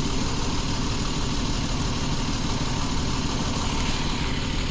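2011 Jeep Wrangler's 3.8-litre V6 engine idling steadily, with a misfire that the mechanic traces to cylinder 2.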